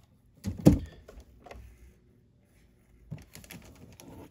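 Plastic action-figure packaging being handled: a loud thump about half a second in as the tray is knocked or set down, then lighter plastic clicks and crackles near the end.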